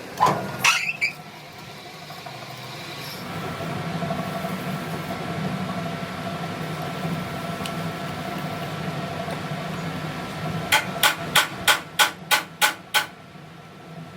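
Hammer blows on steel: a couple of knocks at the start, then eight quick strikes at about three a second near the end, over a steady machine hum, during work on an excavator's front axle ring gear.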